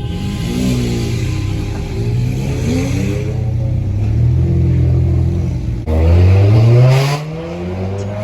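Car engines accelerating hard, the engine note climbing in pitch several times as it pulls through the revs. About six seconds in comes the loudest, steepest pull, which falls away just after seven seconds.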